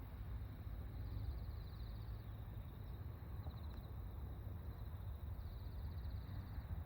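Autumn insects singing: a faint steady high trill with pulsing chirp trains about a second long, over a steady low rumble.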